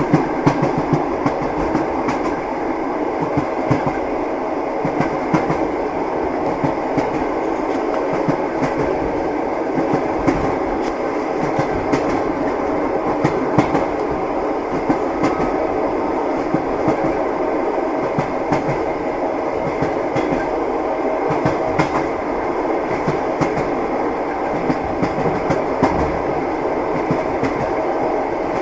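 Train wheels clacking over the rail joints, heard from inside a passenger compartment: a steady running rumble with frequent, irregular knocks and clicks.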